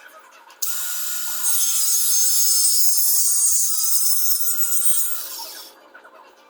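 Power saw cutting for about five seconds. It starts suddenly, holds steady and then tapers off.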